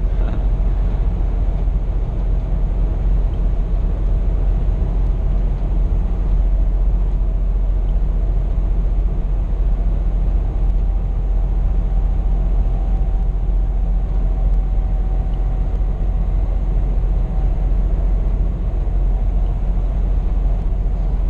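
Steady low rumble of a Scania P420 truck's engine and road noise, heard inside the cab while driving. A faint thin whine comes in about halfway and fades out a few seconds later.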